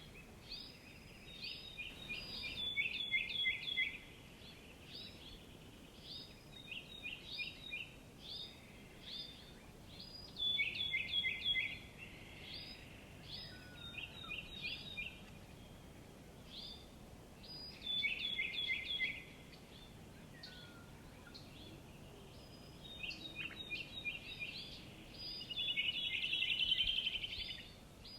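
Small songbirds chirping: quick runs of short, high, down-slurred chirps, each run lasting a second or two and coming again and again, over a faint steady hiss of background noise.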